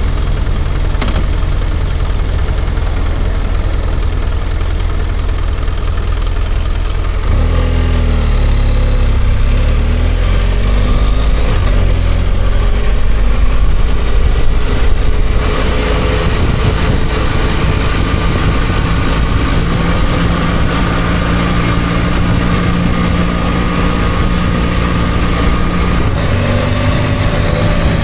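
BMW F800GS parallel-twin engine idling, then pulling away about seven seconds in with the revs rising. From about halfway through it settles into a steady cruise, with wind noise over the engine.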